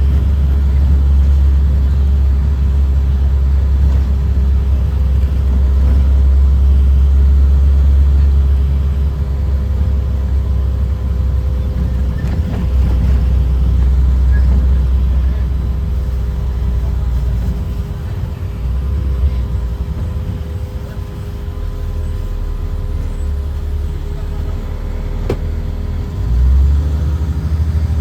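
Inside a school bus under way: the Caterpillar C7 inline-six diesel and drivetrain give a steady, strong low drone. It eases off about two-thirds of the way through and picks up again near the end.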